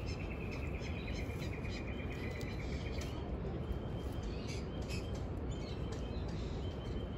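A bird's rapid, evenly ticking trill lasting about three seconds, then scattered short chirps, over a steady low rumble.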